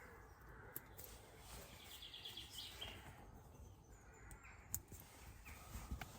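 Faint bird calls, with a quick run of high chirps about two seconds in, and a few sharp clicks.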